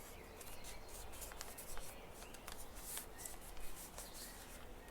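A 15 cm sheet of Kami origami paper being folded and creased by hand: a faint rustle with many small crackles as a layer is folded upward.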